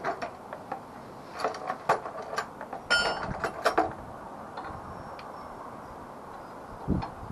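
Hand tools clinking and knocking on metal fittings, with a brief metallic ring about three seconds in. A single dull thump near the end.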